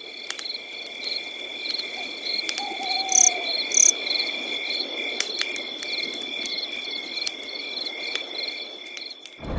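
Night insects, crickets, chirping in a steady chorus: a continuous high trill with a regular chirp about twice a second. A short falling call sounds about two and a half seconds in, and there are a few light clicks.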